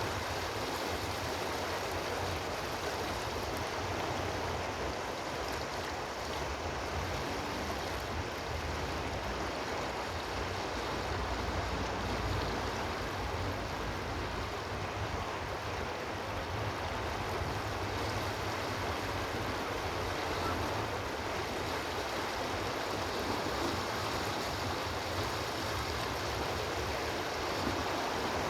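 Running water of a stream: a steady, even rush with no separate splashes or changes.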